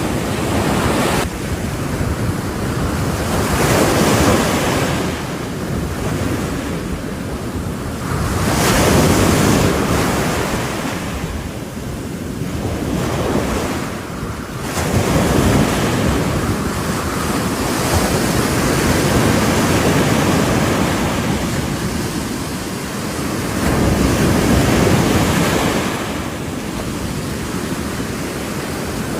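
Sea waves breaking and washing on a shore, the surf swelling and falling back in surges every few seconds.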